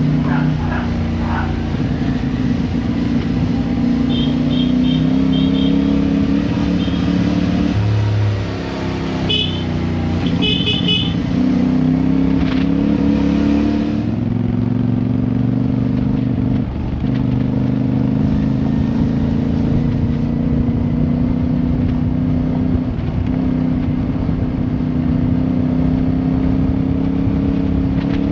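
Motorcycle engine running under way, its pitch shifting now and then with the throttle and gears, with groups of short high beeps about four seconds in and again about ten seconds in.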